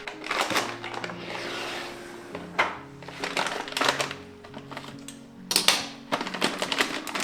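Soft background music under several short bursts of rustling and clattering from kitchen items being handled.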